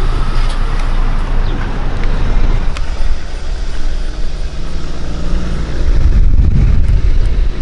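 A motor vehicle's engine running, with a heavy, steady low rumble.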